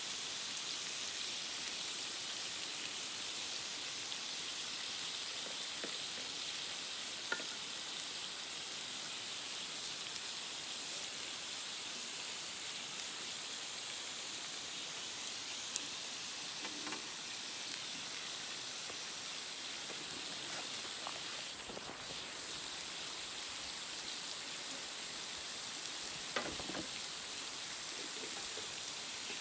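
Steak sizzling as it cooks over a campfire: a steady frying hiss with a few sharp pops.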